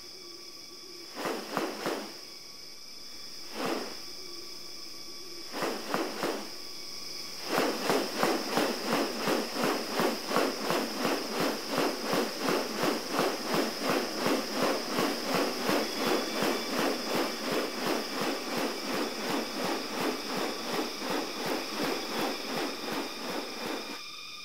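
Rainforest wildlife: a steady high-pitched insect drone, with a few short calls in the first seconds. From about seven seconds in, a loud call pulses rapidly and evenly, two or three times a second.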